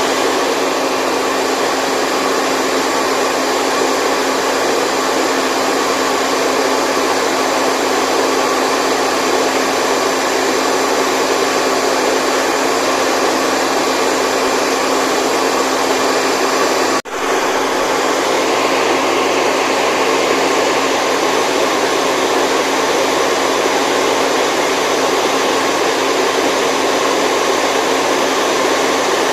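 Steady whooshing white noise with a faint steady hum in it, like a running motor-driven appliance, played continuously as a sleep sound. It drops out for an instant about seventeen seconds in and carries straight on.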